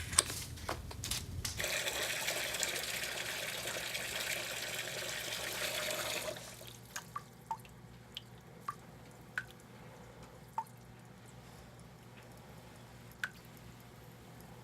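Water running from a tap for about four seconds after a few light knocks, cut off about six seconds in; drops then fall about eight times, further and further apart.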